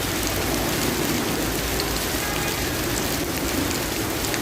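Heavy rain pouring steadily: an even, dense hiss of rain on surfaces.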